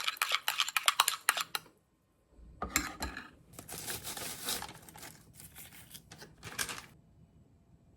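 Kitchen utensils clicking rapidly against a dish, a thud about two and a half seconds in, then scraping and clattering that stops about seven seconds in.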